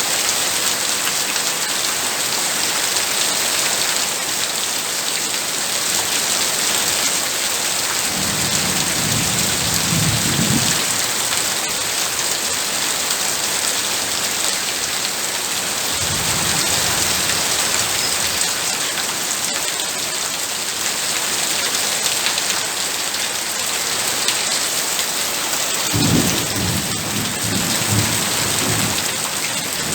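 Heavy rain falling in a steady downpour. Three low rolls of thunder come in under it: about a quarter of the way in, around the middle, and near the end.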